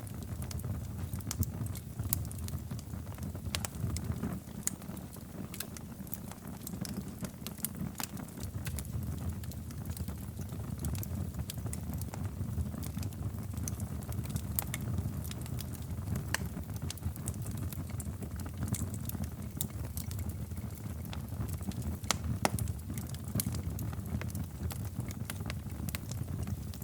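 Wood fire crackling in a fireplace: a steady low rumble of the flames with irregular sharp pops and snaps throughout.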